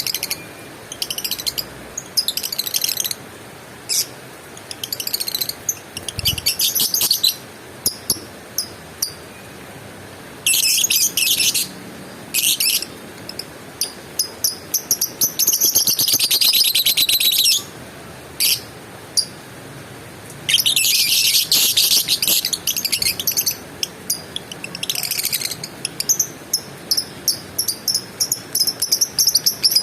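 Lovebird chattering in short, high-pitched bursts of rapidly repeated notes, twice running on into longer unbroken trills of a few seconds each.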